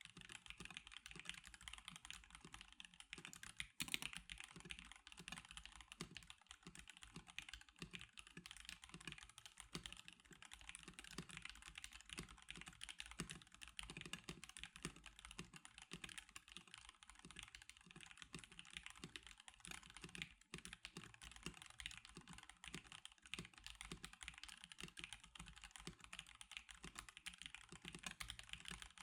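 Continuous fast typing on a stock NovelKeys NK87 Darkshake Edition mechanical keyboard: a dense, steady run of key clacks with one slightly louder hit about four seconds in.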